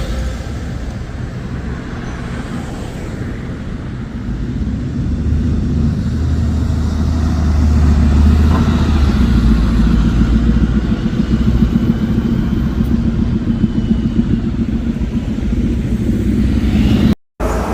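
Diesel bus engine running with a low rumble that grows louder about five seconds in and holds steady, then cuts off abruptly for a moment near the end.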